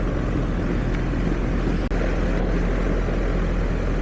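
R-410A air-conditioning/heat-pump outdoor unit running steadily: a constant hum of the compressor and condenser fan. The system is low on refrigerant.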